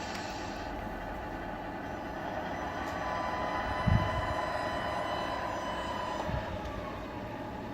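Tamiya radio-controlled scale truck running, a steady mechanical drone with a faint steady whine between about three and six seconds in and a single thump about four seconds in.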